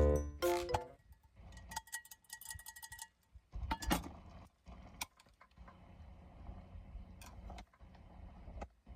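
A chime-like melodic phrase ending in the first second, then scattered light clicks and knocks with a few short metallic ringing tones over a faint low rumble.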